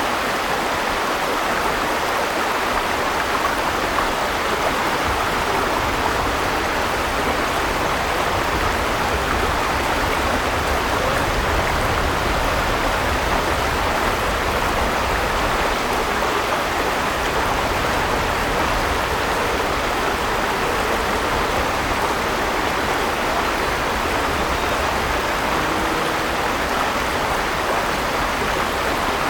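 Flowing water of a river or stream, a steady rushing that holds an even level throughout.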